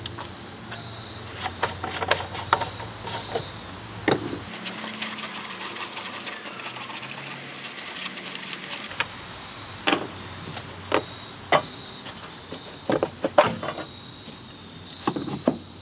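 Tools clicking and knocking on metal as the engine cover of a Honda HR216 lawn mower is taken off. From about four and a half to nine seconds in there is a stretch of rapid fine ticking with hiss.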